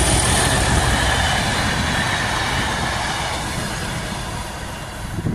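Rolling noise of a Network Rail test train's coaches passing close by at speed, wheels on rail, slowly fading as the train draws away.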